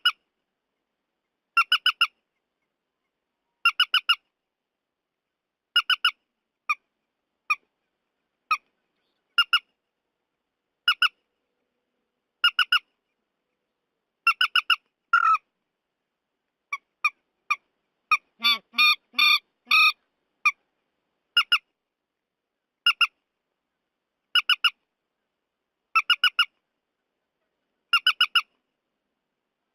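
Recorded calls of the trích ré, a wetland bird: short harsh notes, mostly in pairs, repeating every second and a half or so, with a quicker, busier run of calls a little past the middle.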